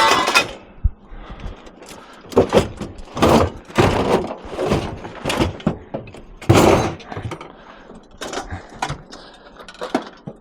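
Irregular clunks, knocks and rattles of scrap being handled and moved around on a truck, several a second at times, with louder knocks about two and a half, three and a half and six and a half seconds in.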